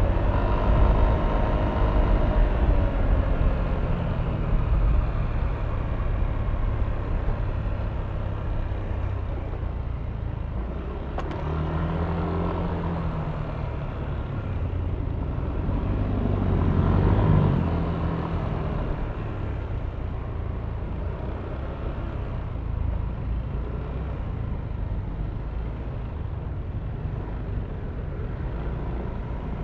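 Yamaha Aerox V3 scooter's single-cylinder engine running under way, its note falling as the throttle eases off over the first few seconds, with a steady low wind and road rumble. About two-thirds of the way through, the sound swells briefly louder.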